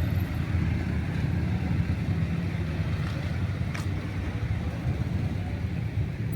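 Motorbike engine running with a steady low rumble, with a faint short click partway through.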